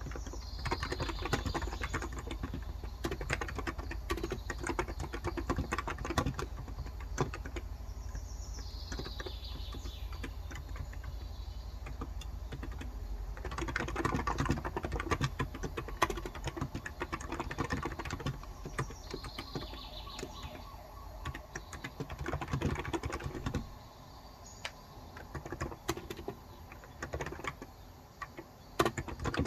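Continuous fast typing on a Cox Endeavor tenkeyless electrostatic capacitive keyboard with 35 g switches, a dense stream of soft key clacks. A bird's falling call is heard three times in the background, and a low steady hum cuts out about three-quarters of the way through.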